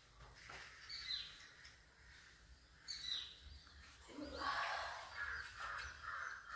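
Birds calling: two short chirps that glide downward in pitch, about two seconds apart, then a louder, choppy run of calls from about four seconds in, over faint background noise.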